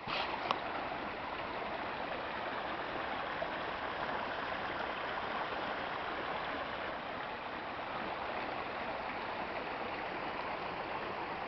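A fast-running river, a steady rushing of water, with a couple of faint clicks right at the start.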